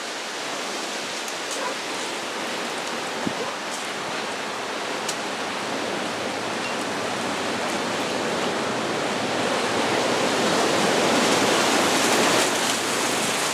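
Heavy monsoon rain falling in a steady rushing hiss that grows a little louder toward the end.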